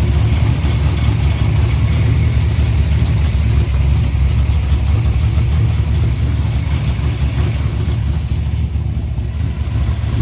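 Truck engine running steadily, a continuous low rumble with no sharp changes.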